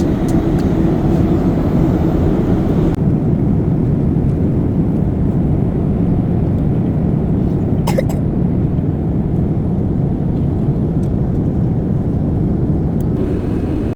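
Steady low rumble of a jet airliner's cabin noise, with one short click about eight seconds in.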